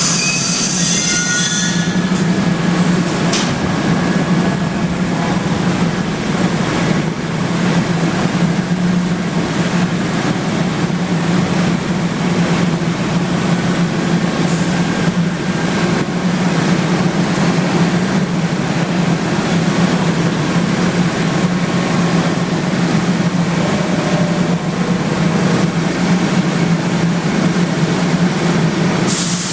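New York City subway train running through the station with a steady, loud rumble. A high wheel squeal in the first two seconds dies away.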